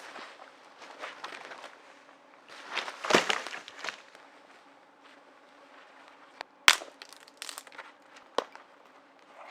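Dry sticks and forest litter crunching, loudest about three seconds in, then one sharp snap of a breaking stick about two-thirds through and a few lighter cracks after it.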